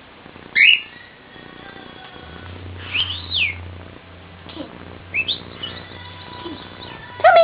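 Pet birds giving short whistled chirps a second or two apart, each sliding up or arching up and down in pitch, with a louder call near the end.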